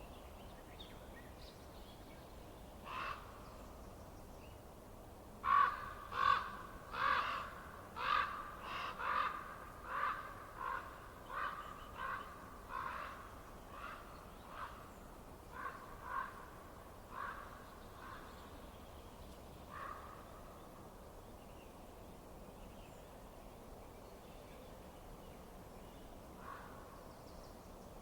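A bird calling over and over: a run of about seventeen loud calls, roughly one and a half a second, that grow fainter toward the end. A few single calls come before and after the run.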